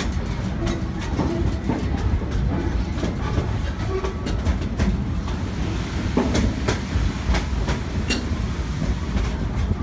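Steam passenger train in motion, heard from the car: a steady rumble of wheels on the track with scattered sharp clacks, several close together about six seconds in.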